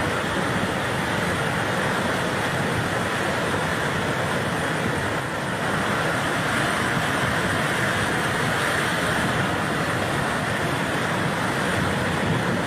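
Fast-flowing floodwater rushing past in a steady, unbroken stream of noise.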